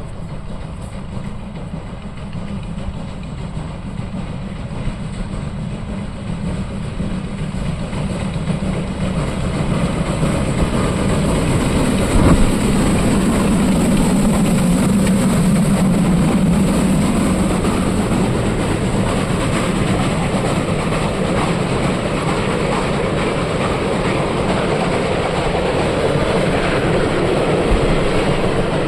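A retro train running on the rails, its noise building over the first dozen seconds and then staying loud and steady, with a single sharp knock about twelve seconds in.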